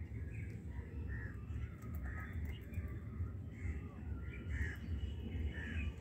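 Birds calling again and again in short calls, over a steady low rumble, with faint small clicks from a rabbit gnawing and tearing at a rope.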